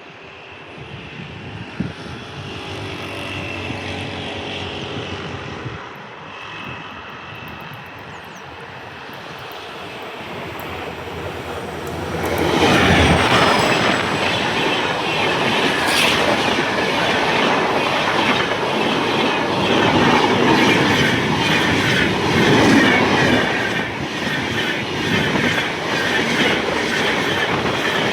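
A train approaching and passing close by. The rumble builds over the first dozen seconds, and from about twelve seconds in the wheels go by loudly, clattering over the rail joints with some squeal.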